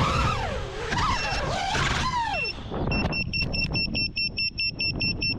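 The tail of the music fades out, then a rapid, evenly spaced electronic beeping starts about three seconds in, several beeps a second, typical of a landed FPV quadcopter's buzzer.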